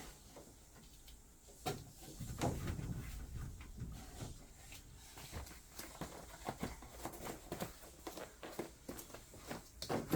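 Irregular light knocks, taps and rubbing of a toddler wiping and handling things while cleaning, with a few louder knocks about two seconds in and near the end.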